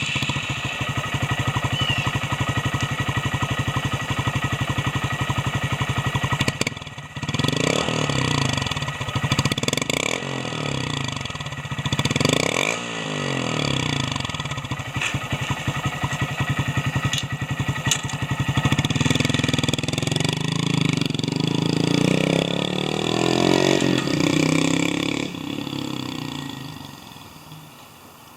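Honda Monkey 125's single-cylinder four-stroke engine through an SP Takegawa RS Sports stainless full exhaust, just after startup. It idles steadily for about six seconds, then is revved in several quick blips. After that come longer climbs in pitch, and the sound fades away near the end as the bike moves off.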